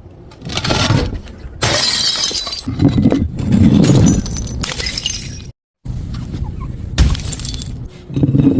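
Glass bottles smashing and shattering: several crashes one after another, with a brief dead gap a little past the middle.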